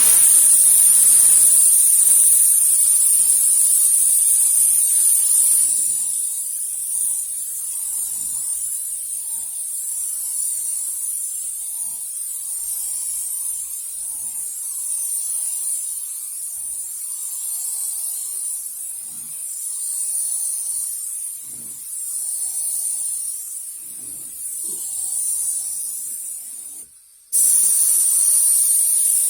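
Paint spraying onto a car: a steady high hiss that breaks off for about a second near the end and starts again.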